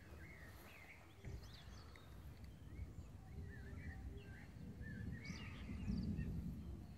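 Small songbirds chirping in short, quick rising and falling calls, several through the whole stretch, over an uneven low rumble that swells a little near the end.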